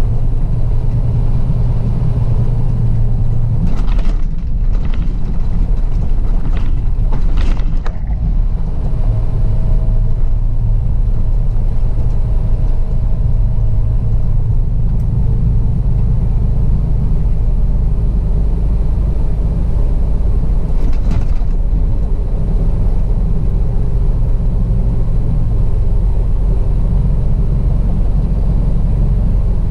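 Semi truck's diesel engine and road noise while driving on the highway, a steady low drone. A few short knocks or rattles come between about four and eight seconds in, and once more near the twenty-second mark.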